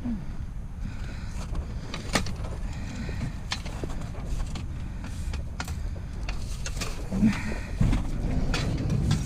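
Scattered knocks and clanks of scrap metal being shifted and loaded into a vehicle, over a steady low rumble.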